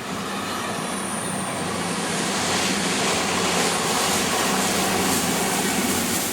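A train running by on the line: a steady rushing noise that grows louder about two seconds in.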